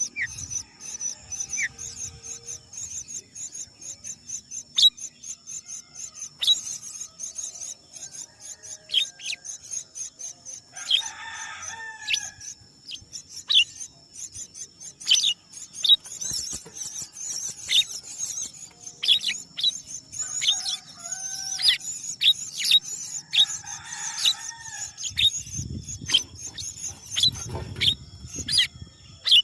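Outdoor birdsong over a steady high insect trill: many short, sharp bird chirps, and twice a longer drawn-out call of about a second. A low rumble comes in near the end.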